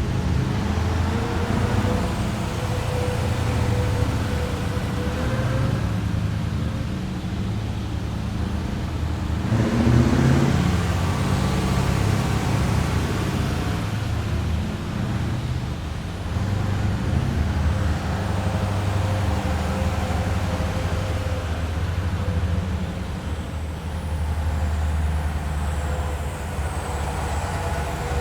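A column of heavy military vehicles driving past, their engines making a steady low rumble with a faint steady whine, swelling loudest about ten seconds in as one passes close.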